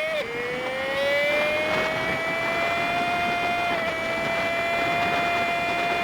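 Honda Super Cub 50's small four-stroke single-cylinder engine heard while riding, sped up five times, so it comes out as a high, steady whine over road and wind noise. The pitch drops sharply just after the start, like a gear change, then climbs slowly and holds steady.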